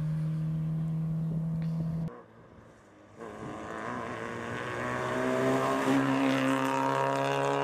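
Rally car engines on a gravel stage. First a steady, distant engine drone; after a cut and a second of near silence, a car approaches under hard acceleration, its engine note climbing steadily and growing louder.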